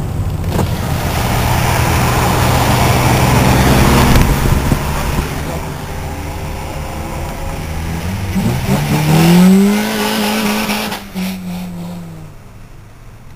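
Car engine running with wet-road tyre noise, heard from inside a moving car's cabin. About eight seconds in the engine revs up sharply in a rising pitch, holds briefly, then falls away and fades as the car eases off.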